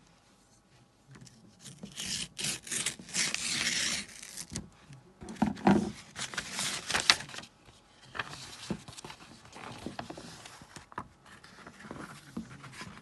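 A mailed package being opened by hand: paper or plastic packaging tearing, rustling and scraping in bursts, with a couple of sharp clicks about halfway through.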